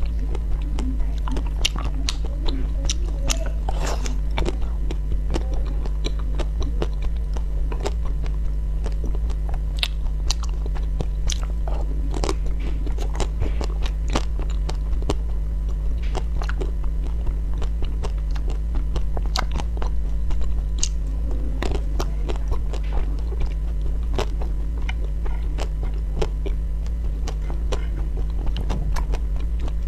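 Someone biting and chewing hard, crunchy frozen ice cream cubes: irregular sharp crunches and crackles with wet chewing between them, over a steady low hum.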